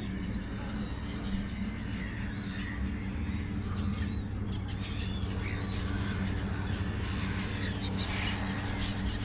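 Many overlapping calls from a huge flock of thousands of birds in the distance, over a steady low hum.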